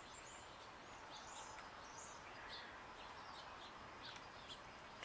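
Quiet outdoor ambience: a steady faint hiss with scattered short, high bird chirps.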